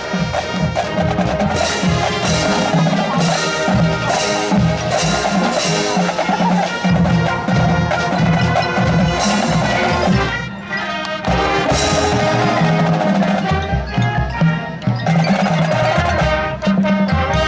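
High school marching band playing, with drums and mallet percussion prominent; the music thins briefly about ten seconds in.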